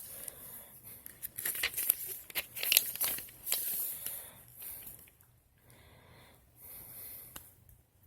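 Paper rustling and crinkling as pages of a printed instruction manual are handled and turned, busiest and loudest in the first half, then a few quieter rustles.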